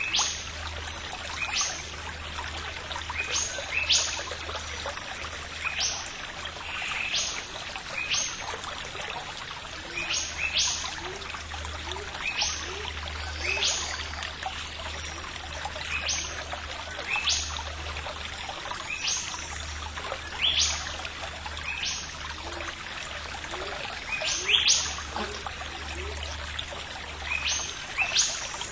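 A bird calling repeatedly: short, sharp rising chirps, often two or three close together, every second or two, over a steady background hiss.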